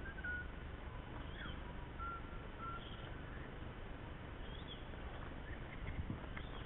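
Faint bird calls, a few short whistled notes and quick chirps, over a steady low rumble of outdoor air and wind on the microphone.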